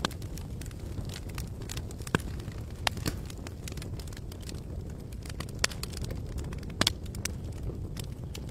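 Campfire crackling: irregular sharp pops and snaps from the burning wood over a steady low rumble, with a few louder pops about three, five and a half, and seven seconds in.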